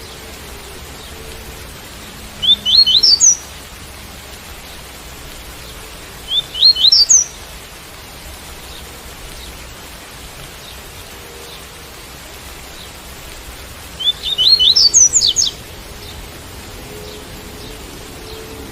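Double-collared seedeater (coleiro) singing in the tui-tui style: three short phrases of quick rising notes, the last one longer. Steady rain noise runs underneath.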